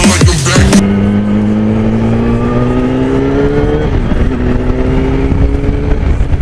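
Yamaha YZF-R1's inline-four engine through a Yoshimura exhaust, accelerating in gear with a steadily rising pitch. About four seconds in there is a brief drop as it shifts up, and then it pulls again.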